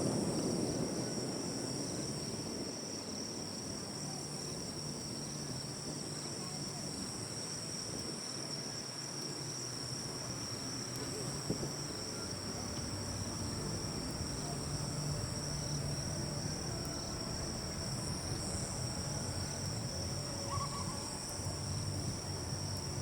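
A steady, high-pitched chorus of insects trilling without a break in the night, over a faint low background murmur.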